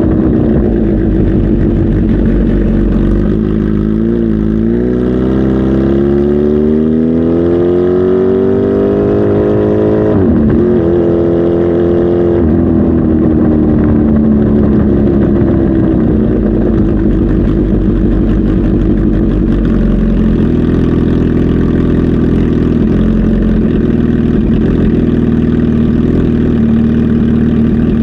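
Kawasaki Z H2 SE motorcycle's supercharged inline-four engine running, its revs climbing slowly for several seconds, holding briefly, then dropping back to a steady lower engine speed.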